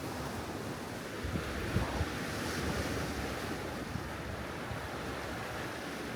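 Wind buffeting the microphone as a steady, gusty rush, with a couple of soft knocks just under two seconds in.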